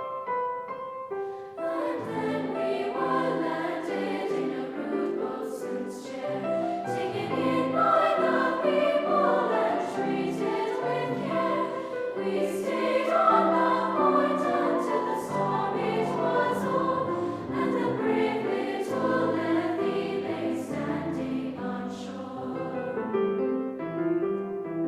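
Junior choir singing in harmony with piano accompaniment. The piano plays alone at first, the voices come in about a second and a half in, and they drop out shortly before the end, leaving the piano.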